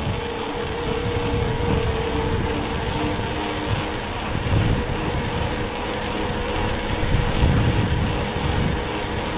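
Wind buffeting the microphone of a moving bicycle, over the steady noise of road traffic, with a faint steady whine that fades out about halfway through.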